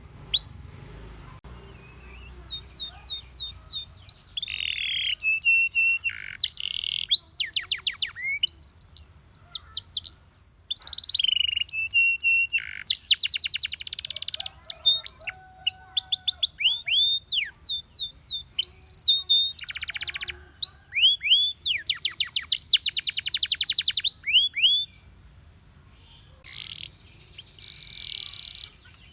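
Domestic canary singing: phrases of fast trills and runs of quick falling whistled notes, separated by short pauses, with the song quieter near the end.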